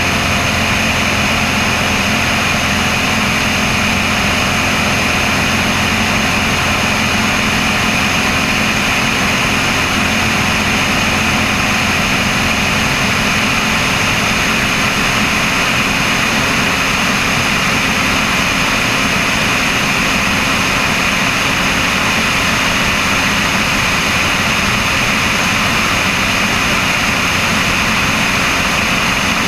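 Cessna 172's piston engine and propeller running at a steady setting, a constant drone with a broad hiss over it, heard from a camera mounted on the wing.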